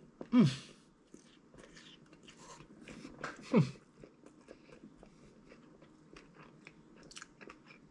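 A person chewing a mouthful of chicken sandwich, with faint scattered wet clicks. Two short vocal sounds falling in pitch come about half a second in and again at about three and a half seconds.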